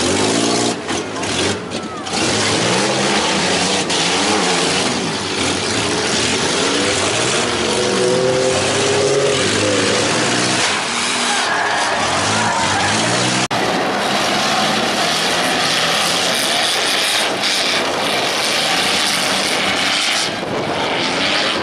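Several compact demolition-derby cars' engines revving and running at once, their pitches rising and falling over one another. About two-thirds of the way through the sound cuts abruptly to a hissier recording in which the engines are fainter.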